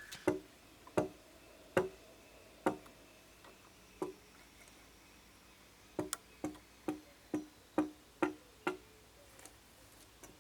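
Hammering: a series of sharp blows with a short ring. They come about a second apart at first, then a quicker run of eight from about six seconds in.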